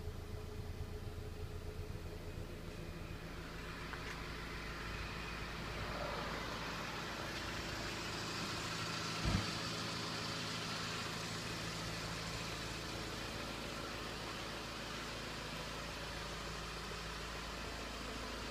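Honda Civic's engine idling steadily, heard first from inside the cabin and then from outside beside the car. A single low thump about halfway through.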